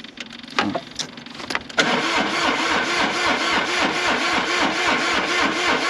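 A few sharp clicks, then the tractor's electric starter cranks the engine for about four seconds, with a steady pulsing of about three compression strokes a second. The cranking cuts off suddenly near the end.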